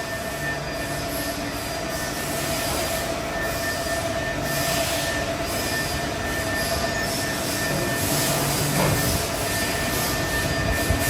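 Workshop machinery running in a hydraulic vane pump factory: a steady mechanical din with two held whining tones under a constant hiss, the hiss swelling louder twice, about halfway through and again near the end.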